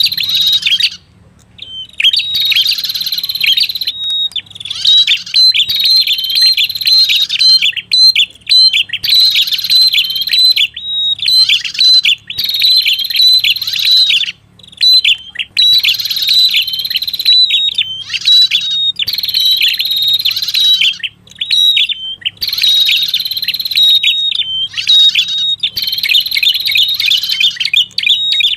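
Lure recording of the red-headed prenjak's song: loud, rapid chirping phrases around a held high note, repeated every one to two seconds with short breaks between.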